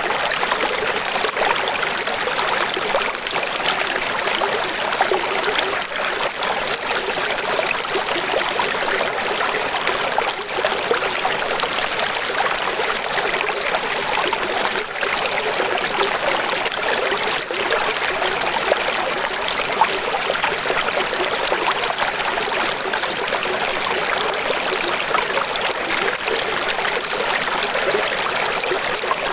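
Running water flowing steadily: a continuous, even splashing rush with little deep rumble.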